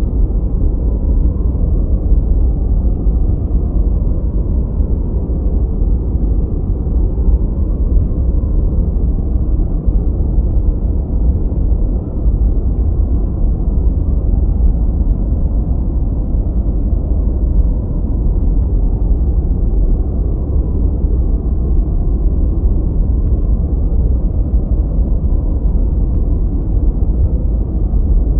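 A steady, deep noise track: an even, muffled rumbling hiss, heaviest in the bass, with no high hiss and no separate events.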